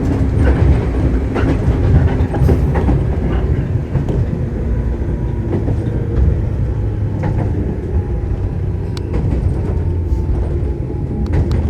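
Shinano Railway 115 series electric train running, heard from inside the car: a steady low rumble from the wheels and bogies, with scattered sharp clicks through it.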